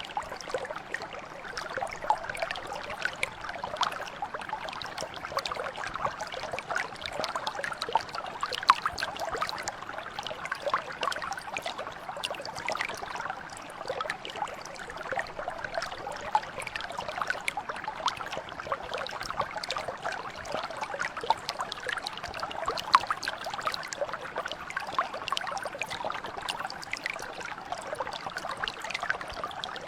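Shallow stream or mountain brook flowing and babbling steadily, full of small splashes and trickles.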